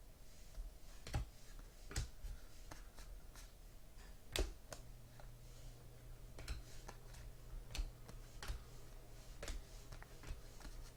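Faint, irregular clicks and light rustles of trading cards being handled and flipped through a stack. A steady low hum comes in a little under halfway through.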